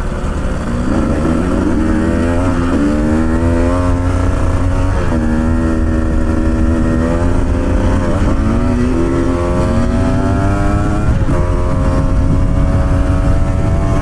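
Motorcycle engine pulling along the trail, its pitch climbing about a second in, then dropping and picking up again about four times as the throttle is eased off and reopened, over a steady low rumble.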